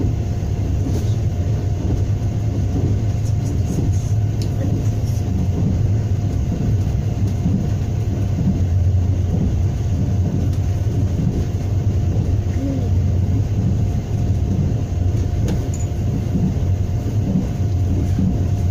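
Steady low rumble of trains on rails heard from inside a passenger carriage, as a freight train of tank cars and hopper wagons passes close by on the next track, with a faint steady hum.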